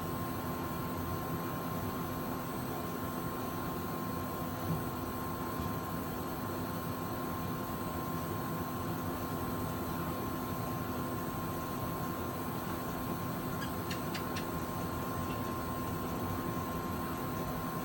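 Steady outdoor background noise with a constant faint hum and no thunder; a few faint ticks about fourteen seconds in.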